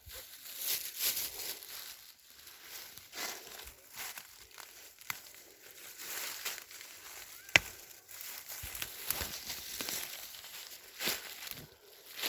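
Irregular rustling and crinkling with scattered small cracks and clicks, and one sharp click about seven and a half seconds in.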